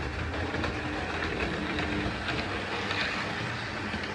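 Two Hornby model trains, a Class 153 unit and a Class 68 locomotive, running at half power around the layout: a steady hum of small electric motors with wheels rattling faintly on the track.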